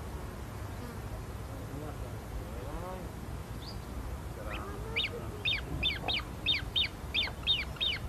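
A bird calling a rapid run of sharp, downward-sliding notes, about three a second, starting about halfway, over a steady low rushing sound.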